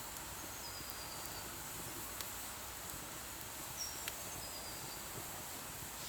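Faint outdoor woodland ambience: a steady high hiss with a few short, high bird chirps and a couple of sharp clicks.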